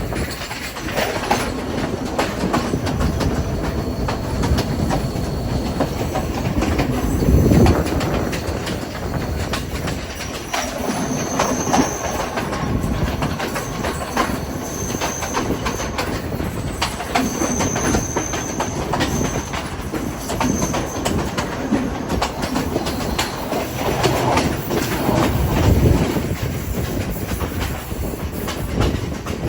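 Train running along the track, its wheels clattering over the rail joints with a steady rumble, and several brief high-pitched wheel squeals in the middle stretch.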